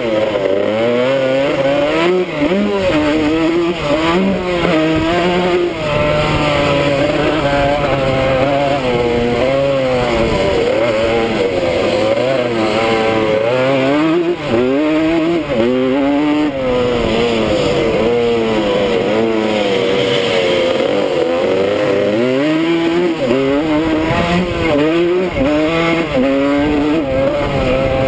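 1979 Suzuki RM125's single-cylinder two-stroke engine at race pace, its pitch climbing and dropping again and again as it accelerates, shifts and backs off through the corners, with wind rush on the helmet camera.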